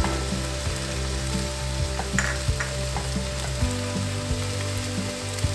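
Chicken pieces sizzling in a stainless steel frying pan, with scattered small pops and ticks.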